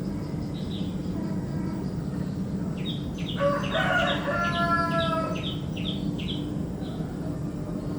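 A rooster crowing once, a long call of about two seconds that starts a little past the middle and falls slightly at the end. Small songbirds chirp repeatedly through it in short high notes, over a steady low background hum.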